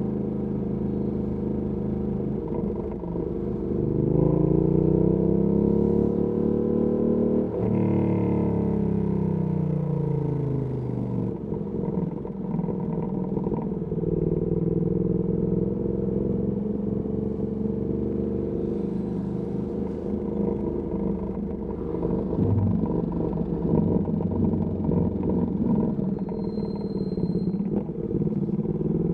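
Ducati Panigale V2S V-twin engine through a Termignoni exhaust, running low and steady, then revving up for a few seconds from about four seconds in. A brief break near eight seconds, the pitch falling as the bike slows, then steady low running again.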